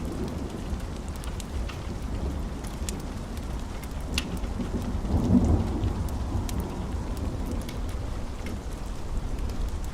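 Steady rain with a continuous low thunder rumble that swells about five seconds in. Scattered sharp ticks and crackles sound over it.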